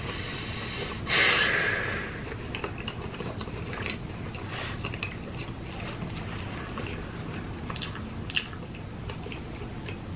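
Chewing and wet mouth sounds as a McDonald's burger is bitten and eaten, with small clicks scattered throughout. A loud rush of noise comes about a second in, and there is one sharp click near the end.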